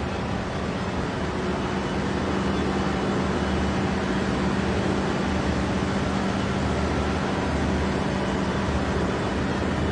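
Steady drone of a cargo ship's engine-room machinery: a constant low hum under a dense wash of mechanical noise, growing a little louder about two seconds in.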